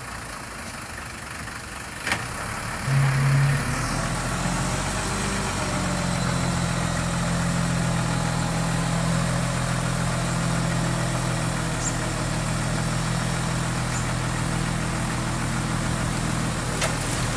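Diesel engine of heavy construction machinery running low, then picking up to a louder, steady higher speed about three seconds in, with a sharp click just before.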